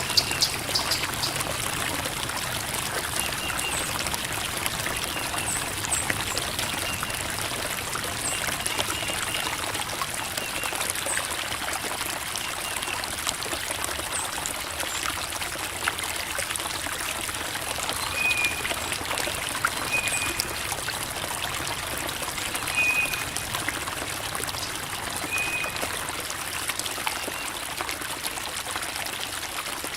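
Creek water babbling and trickling steadily over rocks. Short high chirps come through now and then, repeating every couple of seconds in the second half.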